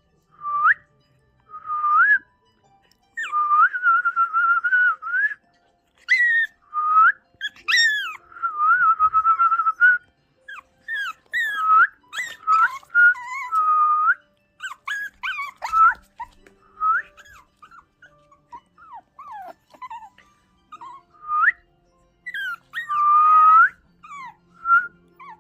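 A person whistling in short held notes and sliding glides, with a two-month-old Shih Tzu puppy whimpering in between, a young puppy still startled and scared by the sound.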